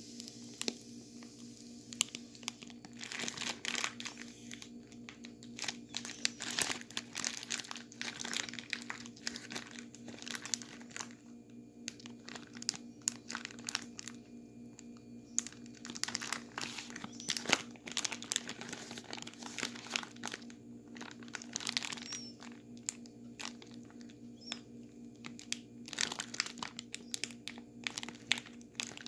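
Plastic bag crinkling and crunching in irregular bursts as a bag of ice and salt, with a bagged drink inside, is handled and shaken to freeze the drink into slush. A faint steady low hum sits underneath.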